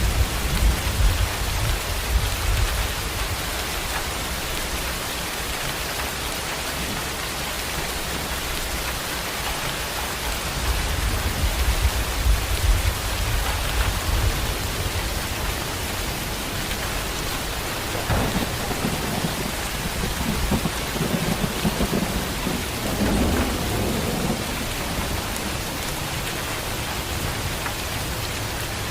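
Heavy rain falling in a steady hiss, with thunder rumbling low several times: near the start, about ten seconds in, and again for several seconds in the second half.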